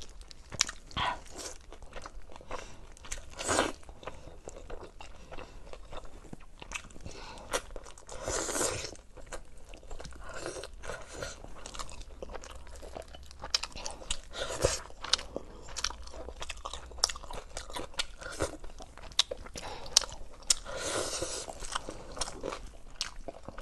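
Close-miked eating: biting into and chewing spicy braised lamb ribs, with many quick wet smacks and clicks of the mouth, and a couple of longer, noisier stretches, one about a third of the way in and one near the end.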